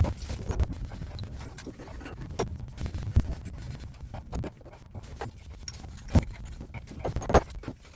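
Irregular handling noises from pipe repair work: scattered knocks, clicks and scraping of hands and tools on water pipe, with two sharper knocks near the end.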